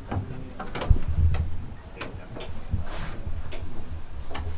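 A series of sharp clicks and knocks at uneven intervals, about ten in all, over a low hum.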